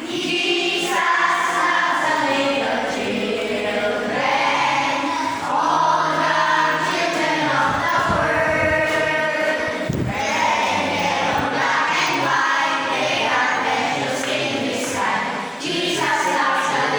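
Group of voices singing together over an amplified musical backing with a steady bass line, the singing of a worship service.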